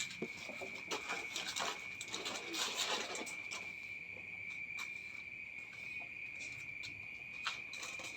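A cricket's continuous high trill on one steady pitch, over irregular crunching clicks, thick in the first three seconds or so and sparser after, typical of cats chewing dry food.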